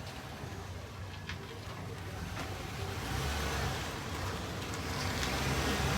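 A vehicle engine running steadily with a low rumble, getting gradually louder, with wind noise on the microphone.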